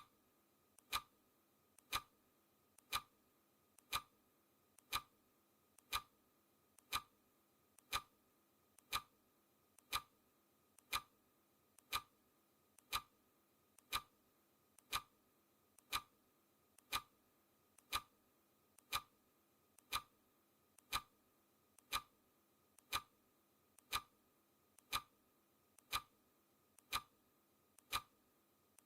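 Clock ticking sound effect for a countdown timer: one short, sharp tick every second, evenly spaced and unchanging.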